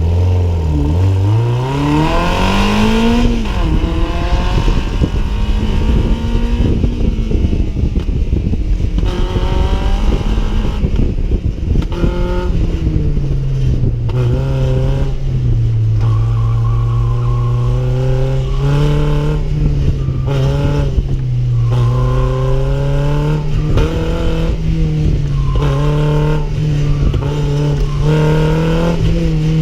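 Toyota MR2 Spyder's 1ZZ-FE four-cylinder engine being driven hard through an autocross run. The engine note climbs and drops again and again as the throttle is worked, with one steep climb and fall near the start.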